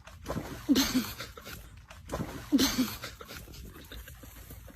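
A dog giving two short barks, about a second and a half apart.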